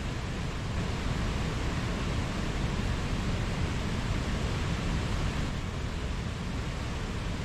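Mountain stream rushing steadily over rocks: a continuous, even hiss of running water.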